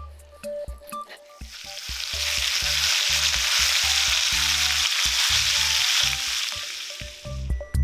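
Food sizzling in hot oil in a pan: a steady hiss that swells up about a second and a half in and dies away near the end, with soft background music underneath.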